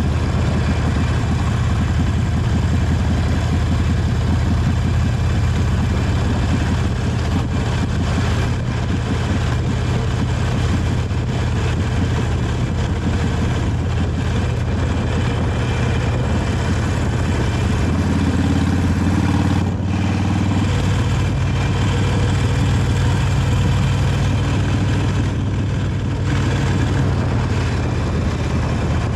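Harley-Davidson Sportster 883 Iron's air-cooled V-twin running on its stock exhaust while under way, a steady low engine note whose pitch shifts for a few seconds past the middle.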